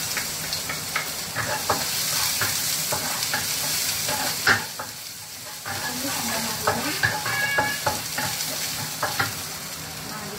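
Minced garlic and ginger sizzling steadily in hot oil in a wok, with a wooden spatula scraping and knocking against the pan as it is stirred.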